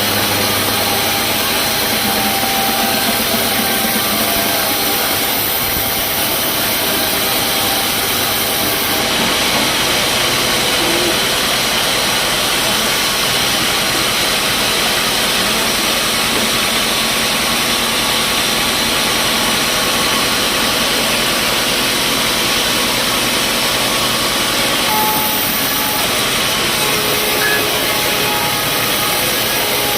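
Sawmill machinery running steadily: a loud, constant mechanical noise with no breaks.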